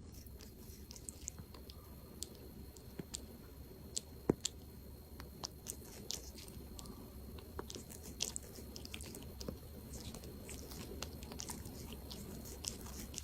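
Faint, irregular crunchy clicks of an animal chewing food.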